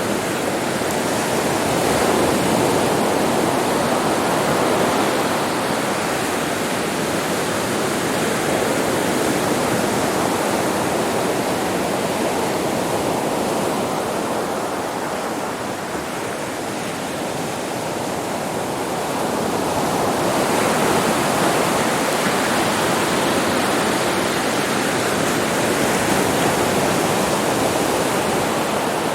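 Sea surf on a beach: a continuous wash of breaking waves that eases off around the middle and builds again as another wave comes in.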